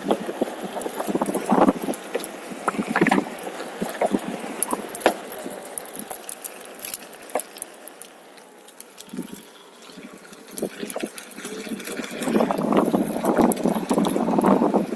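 Onewheel rolling over a rough trail: irregular crunching, clicks and knocks from its tyre on the ground, easing off briefly about halfway through, then thickening near the end.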